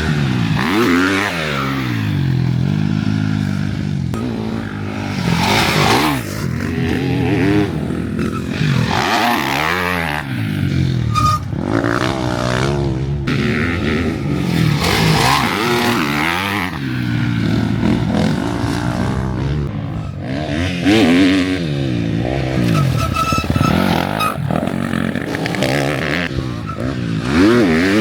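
KTM 250 SX-F single-cylinder four-stroke motocross engine revving hard and easing off again and again, its pitch climbing and dropping every few seconds as the bike is ridden round the track.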